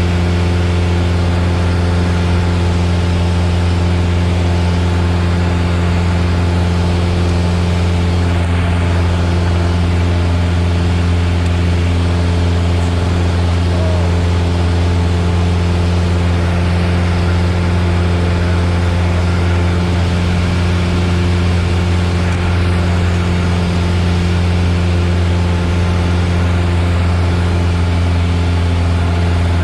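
Piper Warrior's four-cylinder Lycoming engine and propeller droning steadily, heard inside the cockpit: a deep, even hum with a wash of rushing noise over it and no change in pitch.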